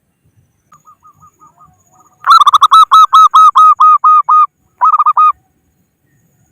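Zebra dove (perkutut) calling: a faint short run of notes, then a loud, rapid series of about a dozen staccato cooing notes lasting about two seconds, followed by a brief burst of a few more.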